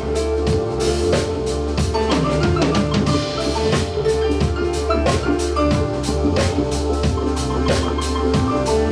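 Live band playing an instrumental passage: a drum kit keeps a steady beat over sustained bass notes and held notes from other instruments.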